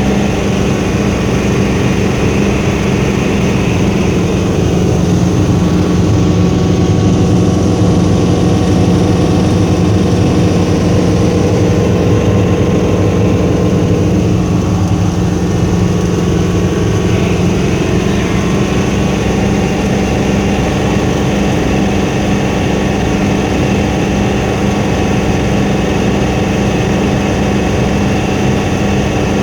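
Helicopter in flight: loud, steady drone of its engine and rotor, with a constant hum underneath.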